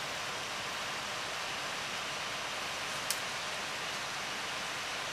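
Steady wind noise, an even hiss without any engine tone, with a single sharp click about three seconds in.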